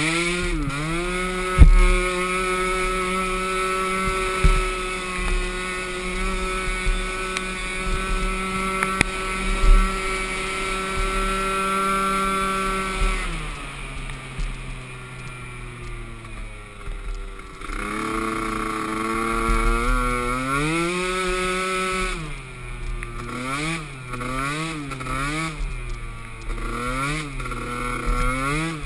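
Small youth-class ATV engine running at a steady pitch, then dropping off as the throttle is released. It then revs back up and rises and falls several times in quick succession as the throttle is worked. A sharp knock comes about two seconds in.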